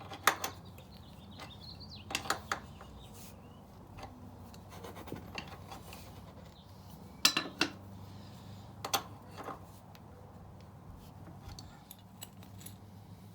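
Metal hand tools clinking against the motorcycle's rear axle and chain adjusters during a drive-chain adjustment, in a few sharp separate clicks, some in quick pairs, over a low steady hum.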